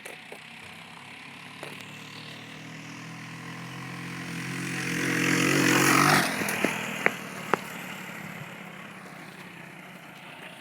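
Dirt bike engine passing by: it grows steadily louder as it approaches, is loudest about six seconds in, then its pitch drops suddenly and it fades as it rides away.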